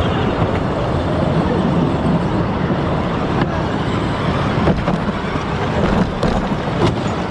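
Steady rattling rumble of a ride-on Power Wheels racer under way, its hard wheels and plastic body shaking over the track, with a few sharp knocks and clicks.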